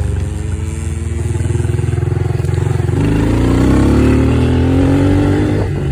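Small dirt bike engine running, then accelerating about halfway through with its pitch rising steadily, and easing off near the end.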